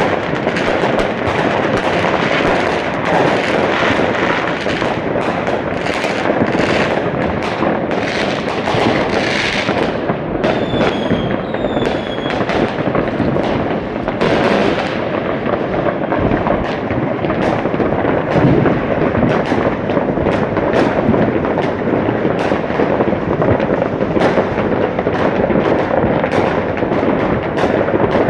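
Fireworks going off in a dense, unbroken barrage of bangs and crackling. About ten and twelve seconds in, two whistling rockets sound briefly, each falling in pitch.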